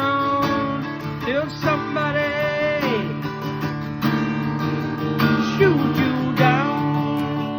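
Acoustic guitar played live, chords ringing under a melody line that bends and glides in pitch.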